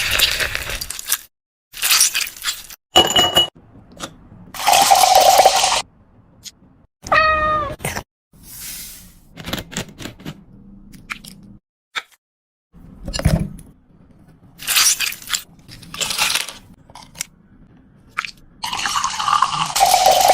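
A cat meowing once, with a pitch that bends up and down, among a string of short noisy bursts and knocks.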